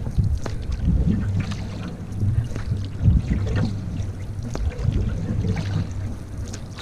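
Canoe paddling: paddle strokes in the water about once a second, over a steady low rumble.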